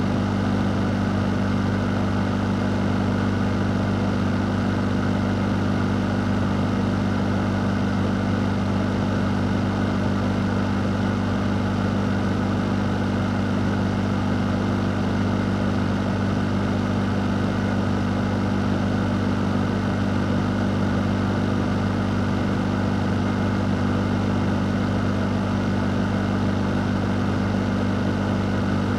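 Electric fan running steadily: a constant low motor hum under an even rush of air, with no change in speed.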